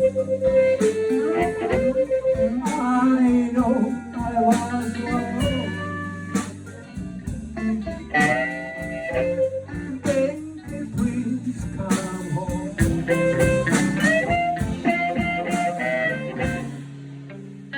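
Blues music: a guitar playing plucked lead lines over a bass line, the sound thinning out and fading near the end.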